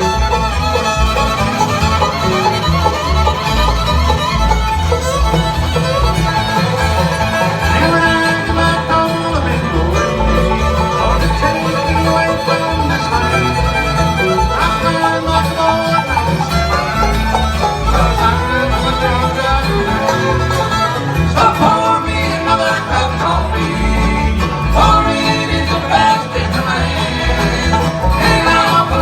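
Live bluegrass band playing an instrumental break: fiddle and banjo carrying the melody over guitar and a steady low beat.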